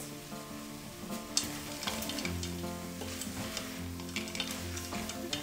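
Wooden spoon stirring rice, green peas and dried citrus peel frying in a stainless steel pot, with several scrapes and light knocks of the spoon against the pot.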